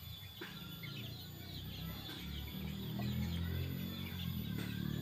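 Birds chirping in quick, small calls over a low steady hum that grows a little louder partway through.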